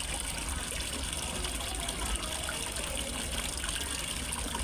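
Water from a small waterfall splashing and gushing steadily into a fish pond.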